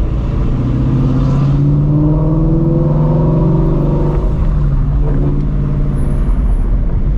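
2016 Ford Mustang Shelby GT350's 5.2-litre flat-plane-crank V8, straight-piped on long-tube headers, pulling under light acceleration with its pitch rising slowly, then easing off about four seconds in.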